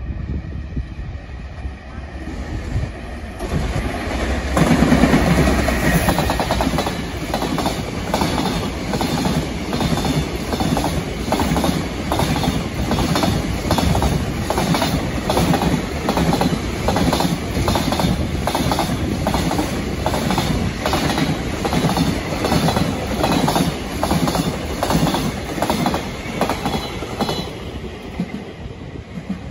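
Freight train passing close by: the locomotive's pass is loudest about five seconds in, then the wagons follow with a steady clickety-clack of wheels over rail joints, about two clicks a second, until the sound drops away near the end.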